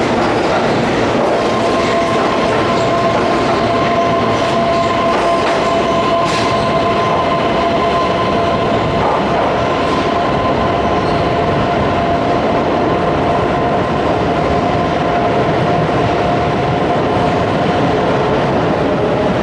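Keihan electric train running along the platform: loud, steady rumble of wheels on rail, with a steady high squeal held above it from about a second and a half in.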